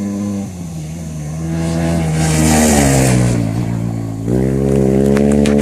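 A rally motorcycle's engine going by at speed. The note drops and is loudest about two to three seconds in, then revs up sharply about four seconds in and holds high as the bike accelerates.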